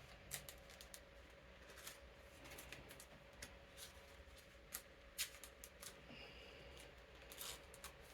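Faint rustling and soft clicks of playing cards being slid into plastic card sleeves, a dozen or so small ticks scattered irregularly, over the steady hum of an electric fan.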